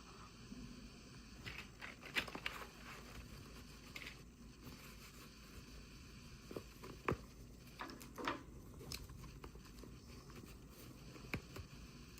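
Toy packaging being handled and opened by hand: scattered crinkles, small tearing sounds and light clicks and taps, with a cluster in the middle and a last tap near the end.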